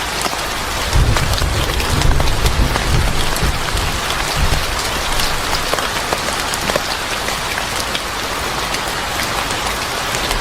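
Steady rain falling on a surface, with scattered sharp drips and ticks, and a low rumble of distant thunder rolling from about a second in until nearly five seconds in.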